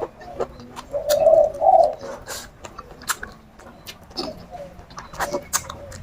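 Close-up eating sounds: wet chewing and mouth clicks go on throughout. About a second in comes the loudest sound, two short low coos of a dove.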